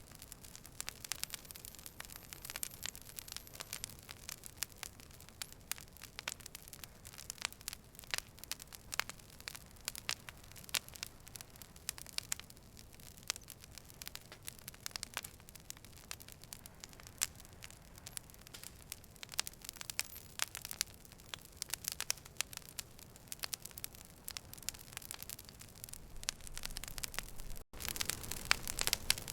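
Campfire crackling: irregular sharp pops and snaps over a low steady hiss. There is a brief cutout near the end, after which the crackling is a little louder.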